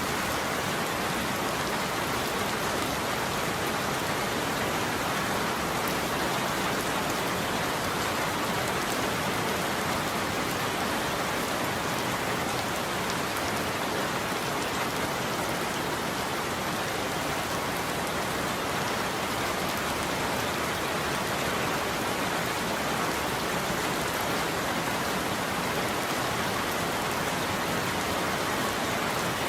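Steady heavy rain falling on a roof: a constant, even hiss of dense drops with no thunder.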